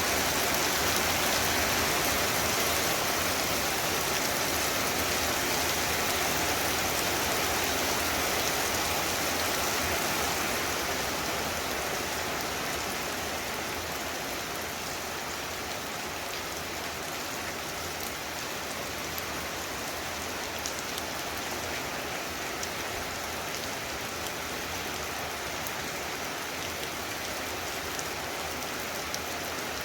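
Heavy rain falling in a steady rush of noise that eases a little about a third of the way through.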